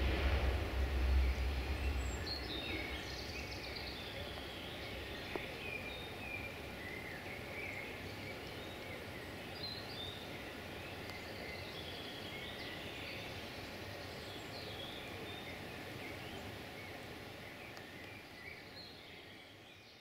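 Low rumble of a just-passed freight train dying away in the first two seconds, then many small birds chirping and singing over a steady outdoor hiss; everything fades down over the last few seconds.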